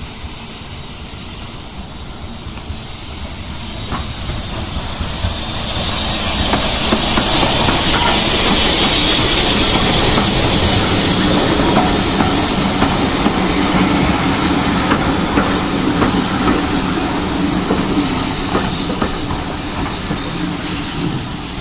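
BR Standard Class 9F 2-10-0 steam locomotive 92203 Black Prince drawing into the station with a three-coach train: steam hissing and the train rolling along the rails. The sound grows over the first few seconds and stays loud once the engine is close.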